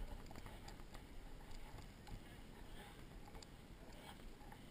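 Faint, irregular footsteps of a group walking on a trail, over a low rumble of handling or wind on the body-worn microphone.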